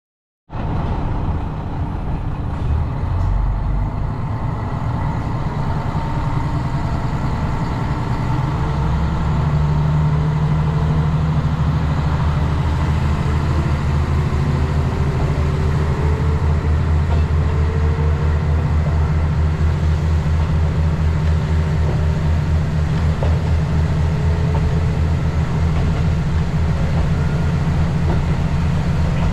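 Diesel train engine running steadily with a deep, loud hum. It starts abruptly and grows louder about nine seconds in as it takes load, with a faint tone slowly rising in pitch.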